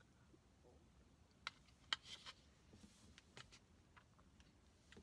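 Faint close-up eating sounds: a mouthful of smoothie bowl being chewed, with a few sharp wet mouth clicks and ticks, the loudest about two seconds in.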